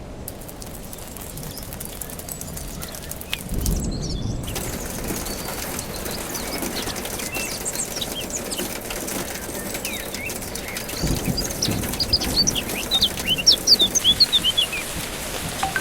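Small birds chirping in quick, short calls over a steady hiss of rain. The calls grow denser and louder near the end. Two low whooshes come through, about four seconds in and about eleven seconds in.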